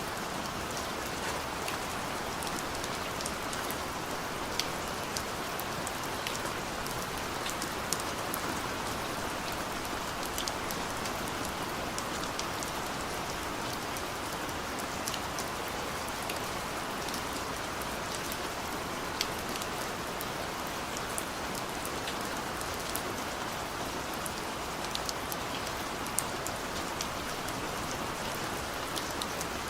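Heavy rain pouring steadily, with scattered sharp drips and taps of drops standing out from the even hiss.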